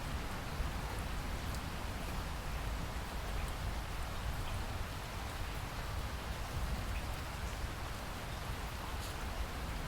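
Steady rain falling, an even hiss with scattered faint drop ticks over a steady low rumble.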